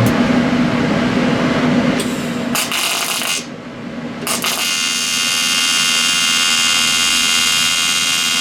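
High-speed power tool cutting the turbo cold-side pipe: a rough grinding noise for the first few seconds, a short drop about three and a half seconds in, then a steady high-pitched whine.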